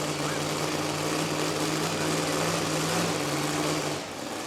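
Engine of a modified two-wheel-drive pulling truck running steadily at low revs, its hum dropping off suddenly about four seconds in.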